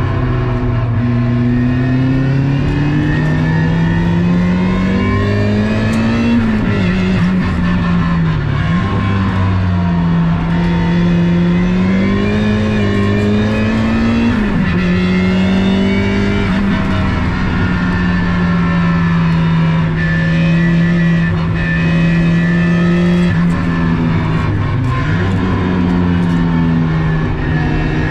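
Turbocharged 1.8-litre four-cylinder engine of a 300 bhp Mazda MX-5 track car, heard from inside the cabin under load. The engine note climbs and then drops sharply several times in the first half, holds a steady pitch through a long middle stretch, and dips once more briefly near the end.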